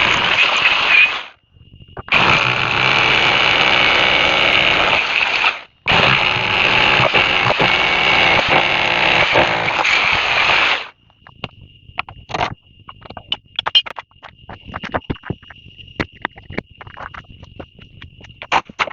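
A loud machine runs in three long stretches with brief stops and cuts off about eleven seconds in. After that a steady high trill continues, with scattered clicks and taps.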